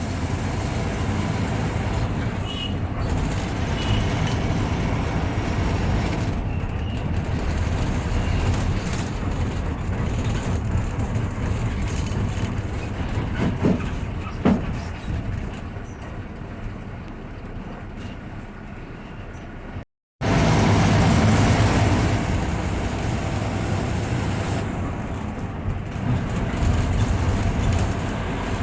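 Bus running, with engine rumble and road noise heard from inside the driver's cabin. It eases off for a few seconds, cuts out completely for a moment about two-thirds through, then resumes at full level.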